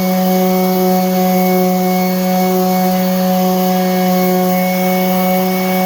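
Electric sander running steadily, a constant motor hum with a hiss of abrasive on wood.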